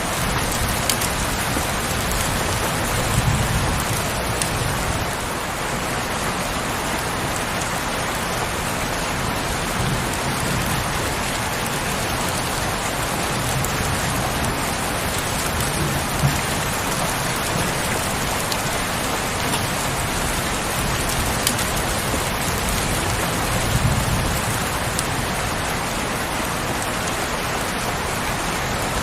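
Heavy rain falling steadily, a dense even hiss, with a soft low rumble swelling up a few times and an occasional sharper drip or tap.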